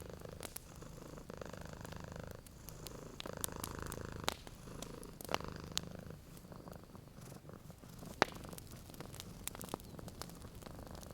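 Domestic cat purring steadily, swelling and easing with each breath, over a wood fire crackling with a few sharp pops, the loudest about 8 seconds in.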